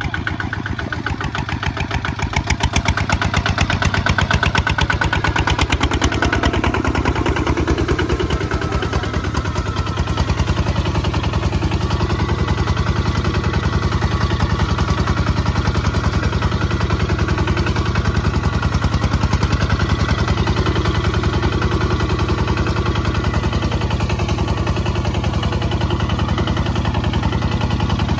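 Kubota ZT 155 DI tractor's diesel engine running while plowing, a fast, even chugging. It grows louder over the first three seconds or so, then holds steady.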